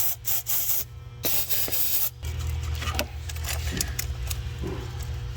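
Aerosol brake cleaner sprayed in two hissing bursts of about a second each onto fuel injectors whose O-rings are baked into the intake, followed by a few light knocks as the injectors are worked.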